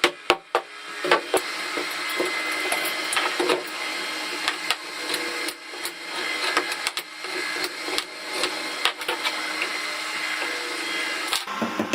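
A small power tool running steadily while working wood, with scattered knocks. Near the end it stops and a quick run of even knocks begins, about six a second.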